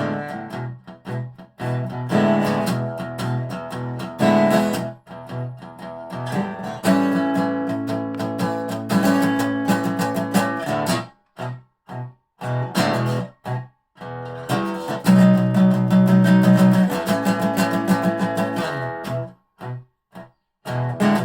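1985 Dobro spider-cone resonator guitar in natural maple, played slide style in regular tuning: phrases of ringing plucked notes, thinning to a few separate plucks about halfway through and again near the end.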